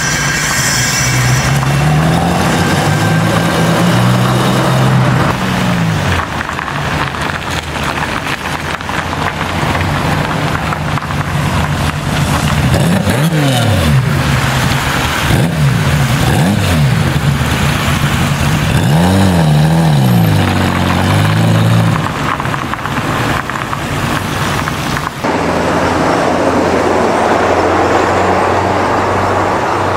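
Car engines running loudly, their pitch rising and falling several times as they rev or pass. About 25 s in the sound changes abruptly to a steadier, lower engine note.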